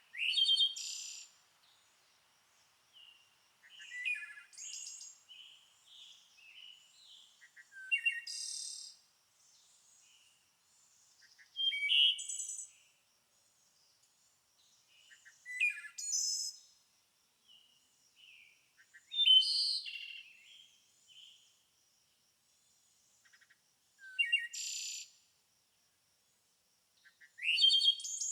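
A songbird singing short, varied, high-pitched phrases, each starting with a quick rising sweep, repeated about every three to four seconds with brief pauses between.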